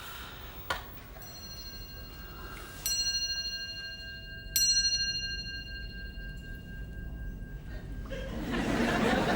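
Bell chimes: two strong strikes about a second and a half apart, each ringing on for several seconds, after a fainter strike. Near the end the chimes give way to a rising hubbub of background chatter.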